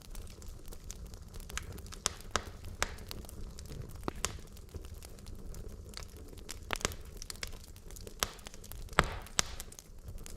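Wood logs burning in a fireplace, crackling with irregular sharp pops and snaps over a low steady rumble of the flames; the loudest pop comes about nine seconds in.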